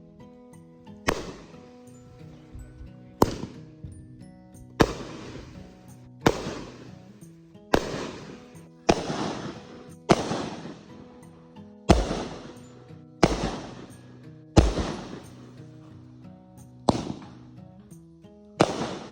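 Fireworks going off: about a dozen sharp bangs, roughly one every one to two seconds, each followed by a fading crackle, with background music playing underneath.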